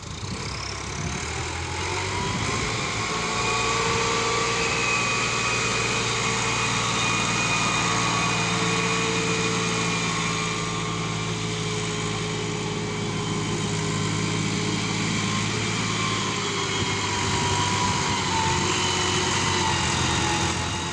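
Massey Ferguson 375 tractor's diesel engine revving up over the first couple of seconds, then running hard at high revs under heavy load as it strains to pull a fully loaded, stuck trolley. The pitch sags and recovers a few times near the end.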